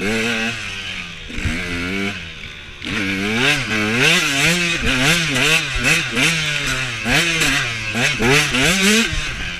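Husaberg TE125 two-stroke enduro motorcycle engine under hard riding, its revs rising and falling rapidly as the throttle is worked. It eases off for about two seconds near the start, then revs up and drops back over and over.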